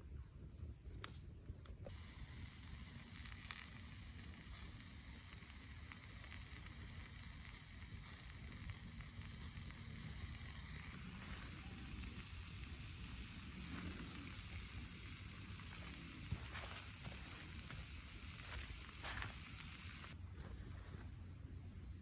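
Food sizzling in a skillet: a steady hiss with faint crackles that starts about two seconds in and cuts off suddenly near the end.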